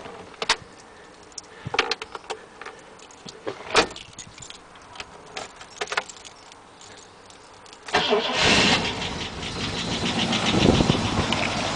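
A few sharp clicks and knocks, then about eight seconds in the Rover SD1's starter cranks with a fast, even beat and the cold engine catches and runs, growing louder.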